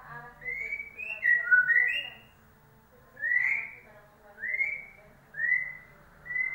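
White-rumped shama (murai batu) singing: a quick run of clear whistled notes, then four separate rising whistles about a second apart.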